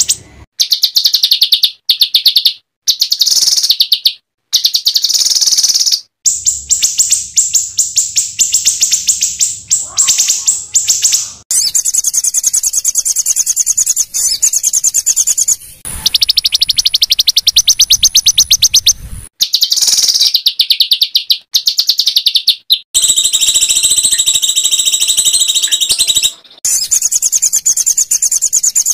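Recorded small songbirds giving rapid, high-pitched chattering trills in back-to-back phrases a few seconds long, each cut off abruptly. This is a masteran song track of rough 'shot' bursts used to tutor white-rumped shamas.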